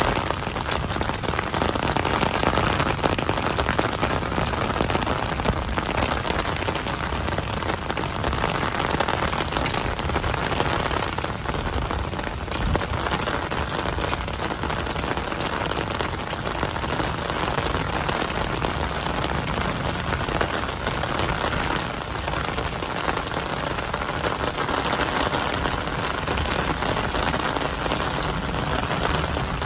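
Steady rain falling, the individual drops heard as many fine, closely spaced ticks over an even hiss, with no let-up.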